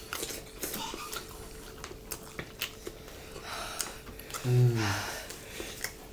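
Eating sounds: chewing and small scattered clicks, with one short voiced sound about four and a half seconds in.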